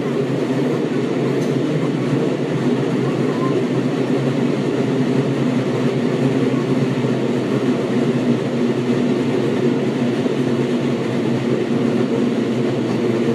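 Running noise inside a Seibu 6000 series train with Hitachi GTO-VVVF control, moving at steady speed. It is a loud, even rail and wheel noise with no rise or fall in pitch.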